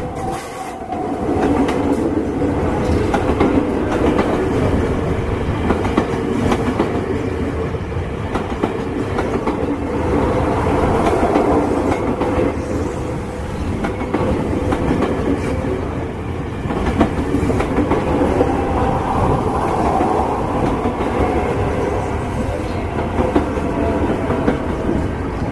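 Passenger train running past at close range: a steady rumble of the cars with rapid clickety-clack of the wheels over the rail joints.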